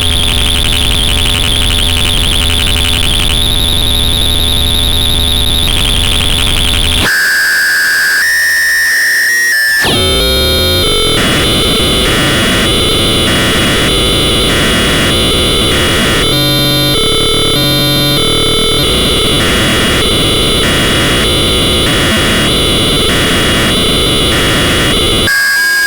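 PARATEK "Kosmicheskiy Shum" eurorack noise module, a Jupiter Storm–style bank of square-wave oscillators, making a loud, harsh synthesizer drone. About 7 s in it thins to a steady high tone, sweeps in pitch around 10 s, and then turns into a pulsing texture that chops on and off about every three-quarters of a second.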